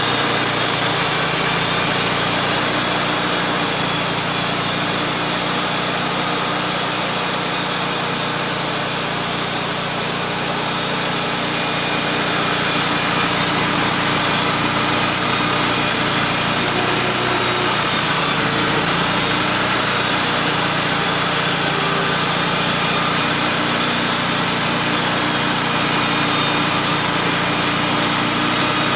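Wood-Mizer band sawmill running, its engine and band blade sawing lengthwise through a pine log with a steady mechanical noise.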